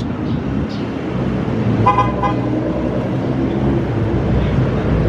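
Car engines running with a low, steady hum as the cars leave, and a short car horn toot about two seconds in. The engine sound grows louder near the end.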